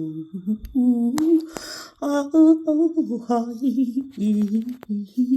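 A woman's voice humming and singing a slow, wandering melody without words, holding and bending each note.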